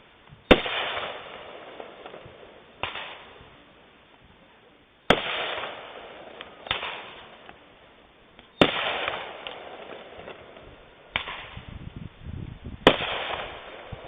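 Fireworks bursting one after another: about seven sharp booms a second or two apart, each trailing off in a rolling echo. There is some crackling between the last bursts.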